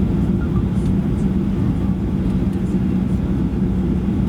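Steady cabin noise inside a Boeing 737-800 airliner: the continuous low drone of its CFM56 jet engines and airflow, with a low hum running through it.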